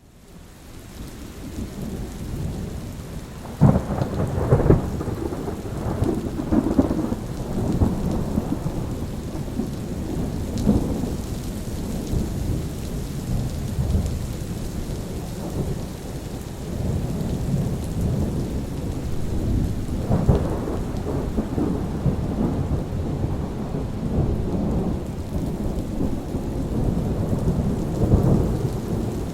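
Steady rain with thunder rolling, fading in from near silence at the start. Loud low rumbles break about four seconds in, again about twenty seconds in, and near the end.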